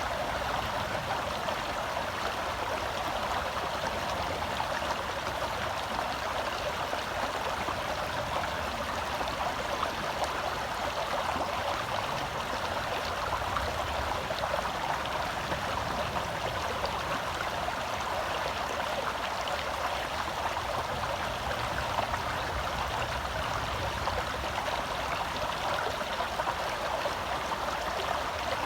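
A small forest stream flowing over rocks: steady rushing and burbling water.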